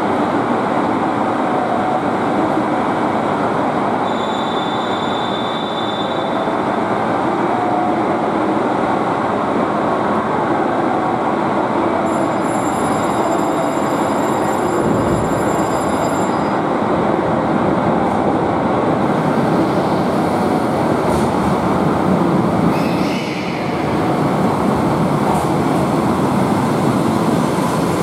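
JR Hokkaido 733 series electric train running into the platform and slowing, a steady rumble of wheels on rail. A few seconds of thin high squealing come about halfway through.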